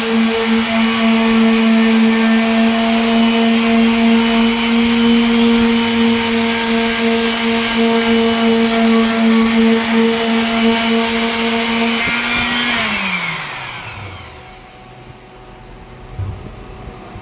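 Power sander running at a steady pitch with a hiss of sanding, then switched off about 13 seconds in, its pitch falling as it spins down. A faint knock near the end.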